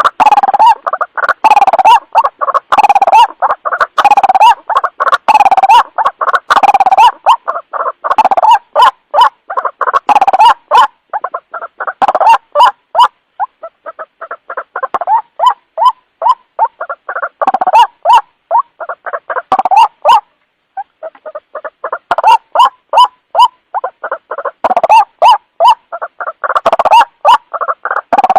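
White-breasted waterhen calling: a long, loud series of rapidly repeated croaking notes, the bird's ruak-ruak call used as a lure sound. The calling slackens briefly about two-thirds of the way through.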